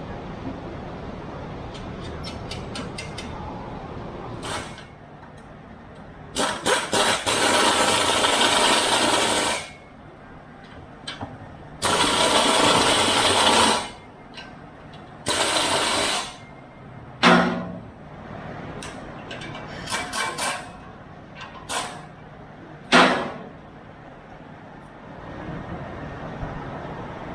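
Exhaust shop tools working on a car's exhaust: three loud, hissing, crackling bursts of a few seconds each, then a run of shorter sharp bursts, with low shop noise in the gaps.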